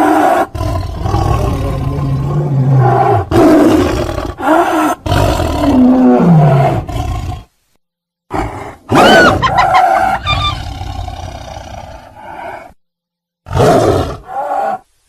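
Mixed tiger and hyena recordings edited into a run of loud roars and growls, one clip after another with abrupt cuts and two brief silences, around 8 and 13 seconds in. About nine seconds in there is a short whooping call that rises and falls in pitch.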